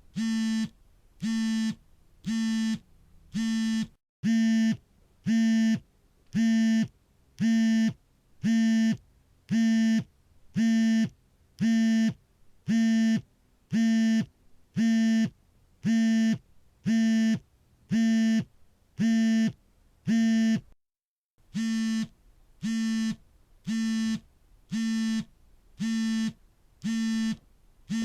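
Mobile phone vibrating on an incoming call, its vibration motor buzzing in short even pulses about once a second. The pulses get louder after about four seconds, and there is a short break about three-quarters of the way through before they start again.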